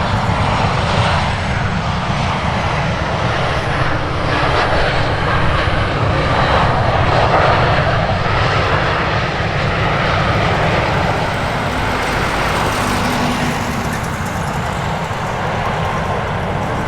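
A passing airliner's engines make a steady noisy rush with a deep rumble, growing loudest about halfway through and then slowly fading away.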